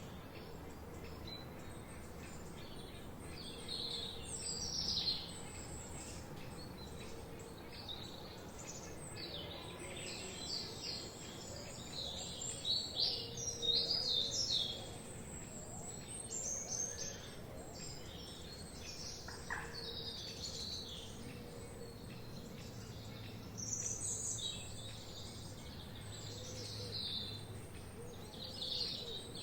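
Several songbirds chirping and trilling in a forest chorus, in short bursts that are busiest toward the middle and again near the end, over a faint steady background hum.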